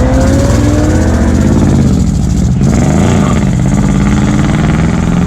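Car engine running loud under acceleration, its pitch rising through the first second; a short break in the sound about two and a half seconds in, like a gear change, then it pulls again.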